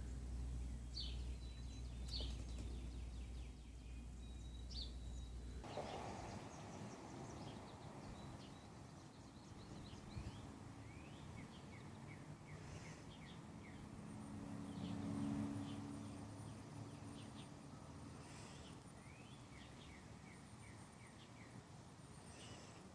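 Faint bird chirps and twitters, some in quick falling runs, over steady background noise. A low hum underneath stops abruptly about six seconds in.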